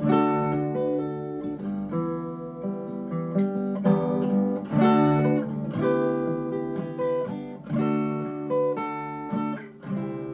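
Acoustic guitar in open G tuning playing the closing instrumental riff, with picked notes and strummed chords, roughly one strum a second; the last chord is left ringing near the end.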